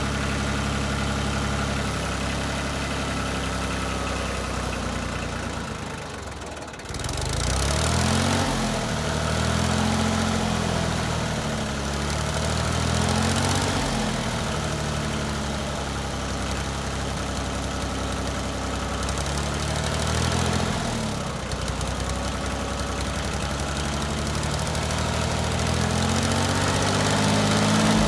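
1988 Yanmar 336D tractor's diesel engine running steadily, just brought back to life after sitting six years. About seven seconds in it dips briefly, then its speed rises and falls back several times.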